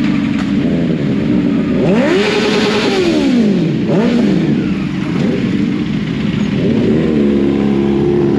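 Motorcycles revving and accelerating away one after another, their engine notes rising and falling. The biggest rev swells and dies away about two seconds in, and another engine climbs near the end.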